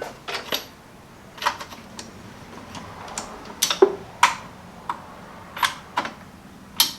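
Hand socket ratchet clicking in short, irregular strokes as a freed engine-mount bolt is backed out: a string of separate sharp metallic clicks, about ten in all. The bolt has just been broken loose after soaking overnight in penetrating oil.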